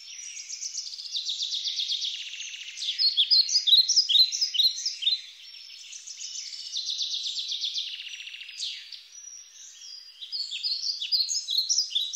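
Songbirds chirping and trilling, several calls overlapping, with fast rattling trills and short slurred chirps.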